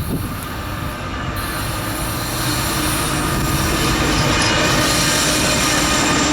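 Loaded aggregate freight train rolling past, its steel wheels squealing on the rail over a steady rumble that grows louder over the first few seconds and then holds.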